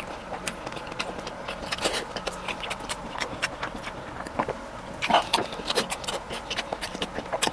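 A person chewing food close to the microphone: irregular wet mouth clicks and smacks, with a louder flurry about five seconds in.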